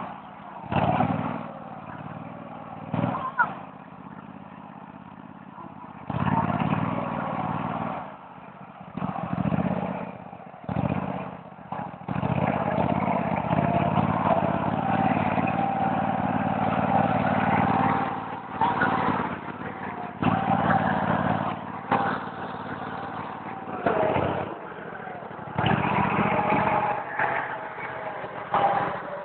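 Small garden tractor engine running, louder and quieter by turns as it is throttled up and down.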